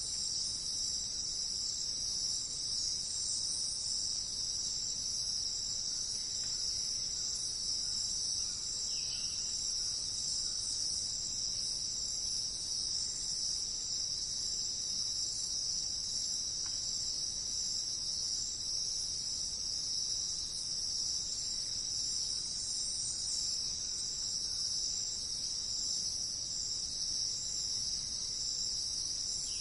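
A dense chorus of insects, typical of crickets, trilling in a steady, continuous high-pitched drone. A single faint short chirp, likely a bird, comes about nine seconds in.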